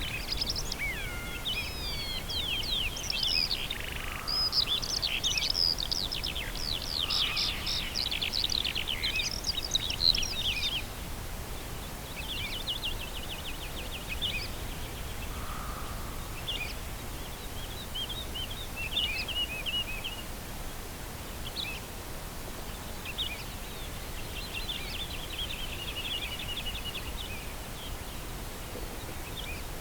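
Wild birds singing: a dense overlap of quick chirps and trills for the first ten seconds or so, then sparser short phrases and trills, over a steady low rumble of background noise.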